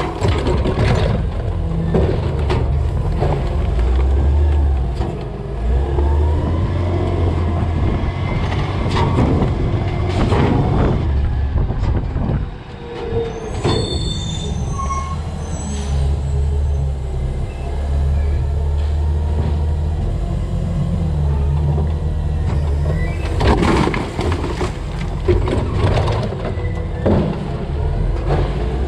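A CNG-powered Peterbilt 320 garbage truck's engine running, its pitch stepping up and down, with several loud crashes and knocks of trash tipping into the hopper: a cluster at the start, another about ten seconds in, and several more near the end.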